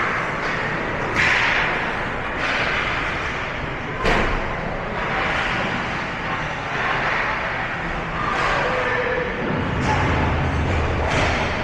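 Game ambience in a large space: three sharp thuds or slams, about a second in, about four seconds in and near the end, over steady background noise.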